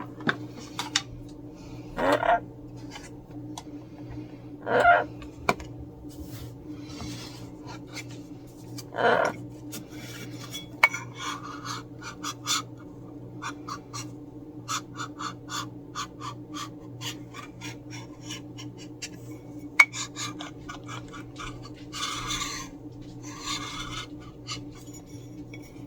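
Repeated scratching and rubbing with many small clicks from hand work on a hard surface, over a steady low hum. A few short, pitched call-like sounds come in the first ten seconds.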